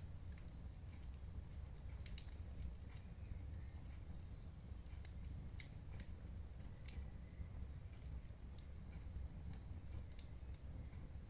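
Wood fire in a fireplace crackling, with scattered sharp pops at irregular moments over a steady low rumble.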